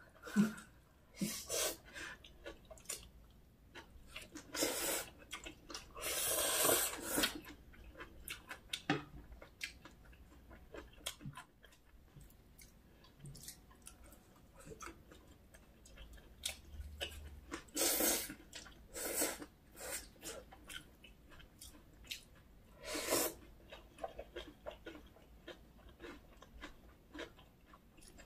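Close-miked eating sounds of spicy whelk bibim noodles and water parsley pancake: wet chewing with many small mouth clicks, broken by a few louder noisy bursts.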